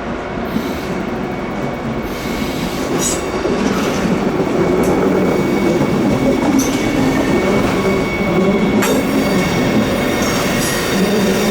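Train wheels squealing as their flanges grind against the rails in a tight curve: steady high-pitched squeal tones over the rumble of the passing train, with a few sharp clicks over rail joints. It grows louder about four seconds in.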